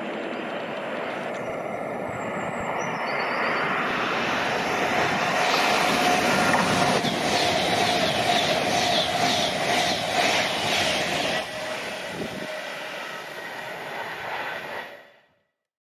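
A train passing by, growing louder to a peak about halfway and then fading, with a quick run of wheel clicks at its loudest and a steady tone beneath. The sound cuts off abruptly near the end.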